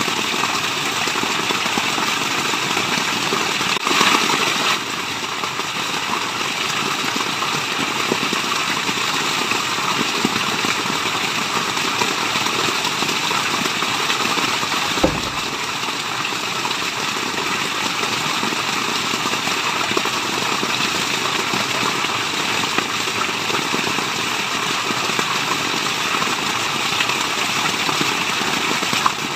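Steady rush of water from a waterfall, with a brief louder surge about four seconds in and a short low thump about halfway through.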